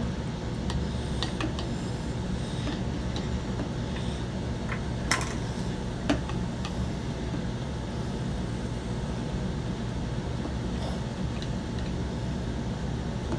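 Steady low background hum with a faint even hiss, broken by two short light clicks about five and six seconds in.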